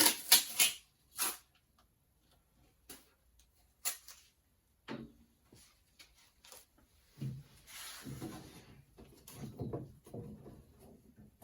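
An AN hose line being handled and laid along a car's chassis: a quick run of sharp clicks and knocks at the start and a few single knocks after, then several seconds of rubbing and rustling from about seven seconds in.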